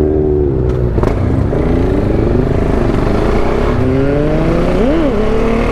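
KTM 690 Duke R's single-cylinder engine pulling hard, its pitch climbing twice with a short dip between, and a quick rev up and back down about five seconds in. A sharp click about a second in.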